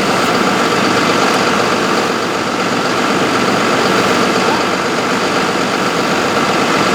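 Engine running steadily and loudly, with a constant mix of even noise and several held tones.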